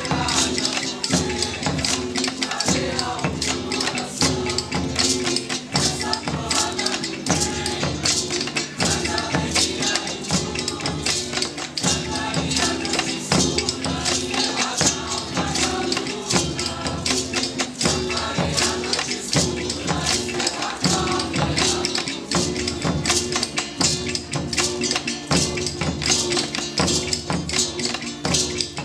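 Live student percussion ensemble playing a steady, driving rhythm, with tambourine jingles prominent on every beat over other pitched music.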